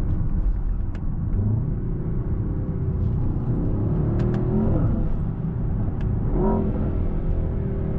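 Mercedes-AMG S63 twin-turbo V8 pulling under acceleration, heard from inside the cabin over a deep road rumble. The engine note rises and falls a little past halfway, with another short swell near the end.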